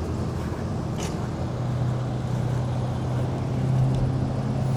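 Steady low drone of a running engine, with a faint click about a second in.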